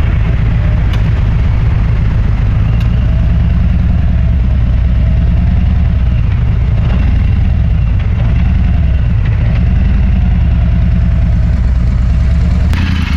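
Motorcycle engine running steadily while riding, a loud, even low drone.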